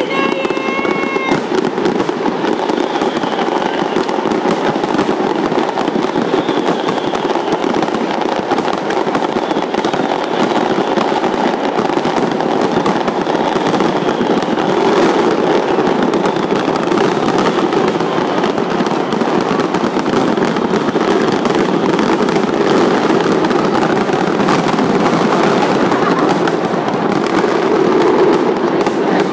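Large fireworks display: a dense, continuous barrage of bangs and crackles, with a few brief whistles at the start.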